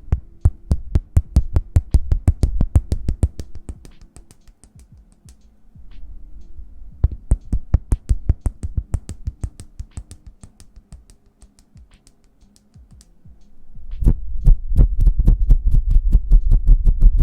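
Close-miked hands tapping rapidly, about eight to ten soft thumps a second. They come in bursts that fade and return, and are loudest and fullest near the end.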